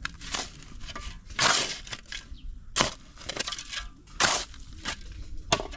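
Hand tools scraping and crunching into soil and gravel as a road surface is spread and levelled. A crunching stroke comes about every second and a half, with small knocks between.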